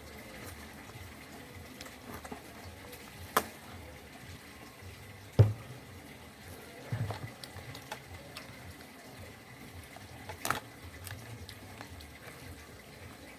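Wet, close-up eating sounds of mutton curry and rice being chewed and mixed. A few sharp clicks stand out, the loudest with a low thump about five seconds in.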